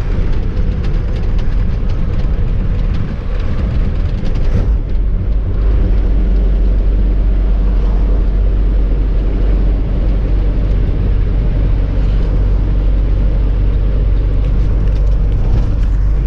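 A truck engine running with a steady low drone, with a few faint rattling ticks about four seconds in.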